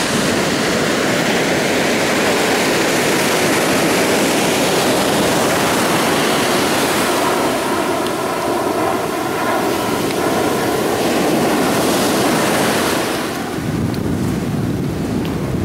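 Ocean surf breaking and washing in, a loud continuous rush, with wind noise on the microphone. The hiss thins out near the end.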